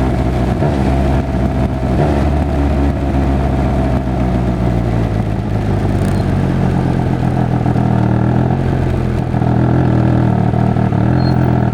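Triumph Speed Triple 1200 RR's three-cylinder engine running at steady revs, its exhaust note loud and even.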